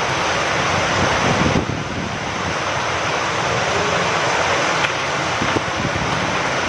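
Rain falling steadily with wind, a dense even hiss that eases briefly about one and a half seconds in.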